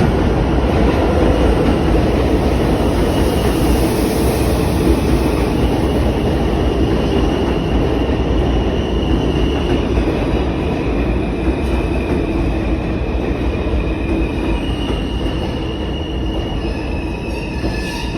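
New York City subway train running on the rails: a loud, steady rumble of wheels and cars with thin, high wheel squeals that come and go, easing slightly near the end.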